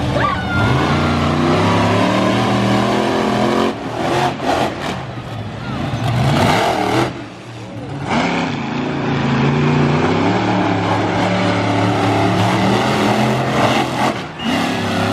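Monster truck engines running hard and revving during a race, loud, with a brief easing about halfway through before they pick up again.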